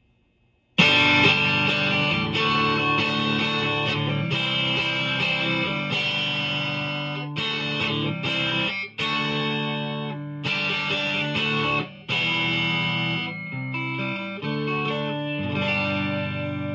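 Epiphone Les Paul Traditional PRO-III Plus electric guitar played clean through an amplifier with the neck humbucker coil-split, a passage of chords and single notes that starts suddenly about a second in and rings out near the end.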